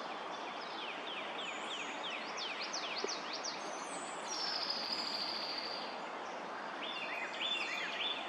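Several songbirds singing and calling over a steady background hiss: a run of quick falling whistles, then a long high note sliding down, then a burst of chattering notes near the end.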